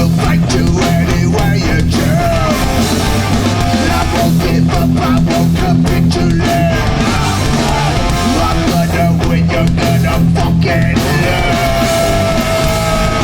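A hardcore punk band playing live, with distorted electric guitars, bass and pounding drums. About eleven seconds in, the drums drop out and a held guitar note slowly bends down in pitch.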